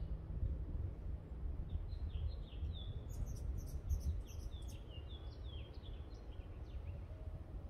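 Small birds chirping in two runs of quick, falling notes, the second run longer, with a few sharp high ticks in the middle. A steady low rumble lies under it all.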